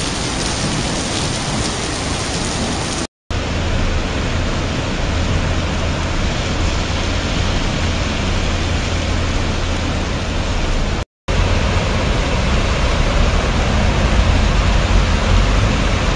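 Heavy rain pouring down in a summer thunderstorm: a dense, steady hiss with a low rumble underneath. It cuts out to silence briefly twice, about three and eleven seconds in.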